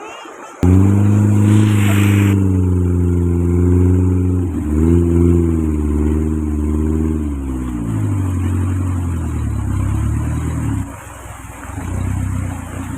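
A motor vehicle engine running close by, its pitch shifting up and down. It starts abruptly about half a second in, drops away near eleven seconds, then comes back briefly.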